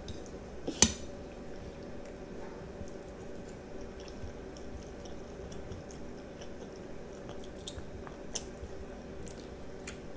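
A young child chewing and eating spaghetti with meat sauce, with small wet mouth clicks, and one sharp click about a second in.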